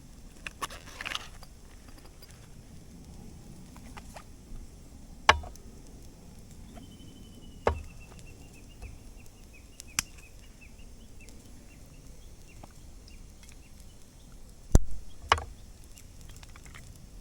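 Firewood at a campfire giving a few sharp cracks and knocks, several seconds apart, two of them close together near the end. A faint run of high chirps, like a small bird, sounds for a few seconds in the middle.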